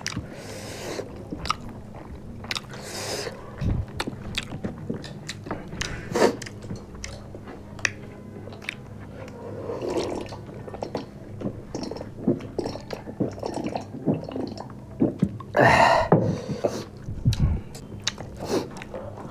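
Close-up chewing and biting of chicken and rice eaten by hand, with many short clicks and crunches. There is a louder noisy burst of about a second near the end.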